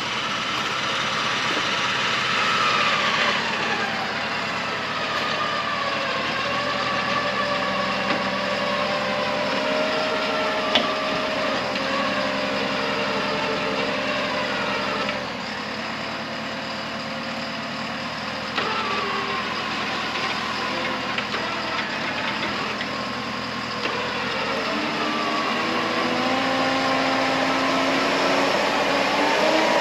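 Vehicle engines running, their tones slowly rising and falling in pitch, with a single sharp click about eleven seconds in.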